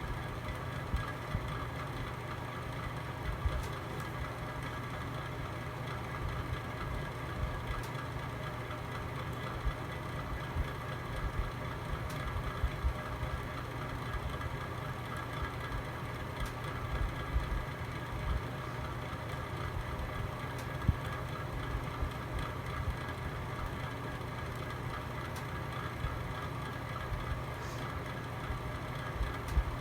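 Log fire burning in a home fireplace: a steady low rumble with scattered crackles and pops, the sharpest pop about 21 seconds in.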